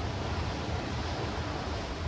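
Sea surf washing steadily over dark rocks and stones, with a low rumble of wind on the microphone underneath.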